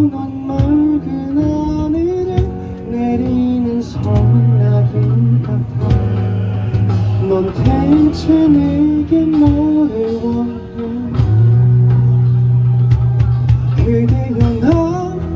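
Live small-band music: acoustic guitar, bass guitar and cajon keep the rhythm under a bending, gliding lead melody, with no lyrics sung.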